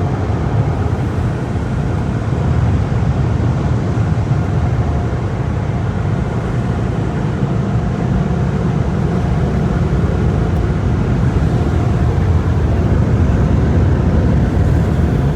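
Car wash tunnel dryers: high-powered blowers give a loud, steady rush of air over the car, deep and low, with a faint steady whine above it, growing a little louder near the end.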